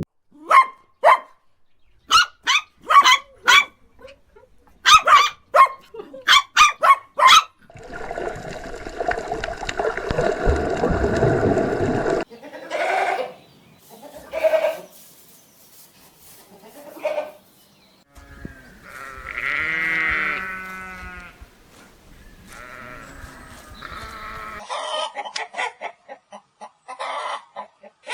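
Farm animals calling in a series of short clips: quick runs of short sharp calls, then bleating sheep, including one long wavering bleat about two-thirds of the way through, and more short repeated calls near the end.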